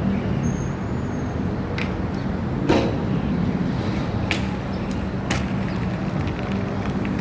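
A vehicle engine running steadily, with several sharp clicks and one louder knock about three seconds in.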